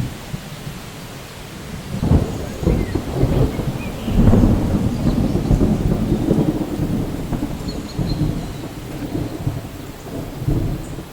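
Thunder rumbling over steady rain. The rumble builds about two seconds in, is loudest around four to six seconds, then eases off, with a few faint bird chirps above it.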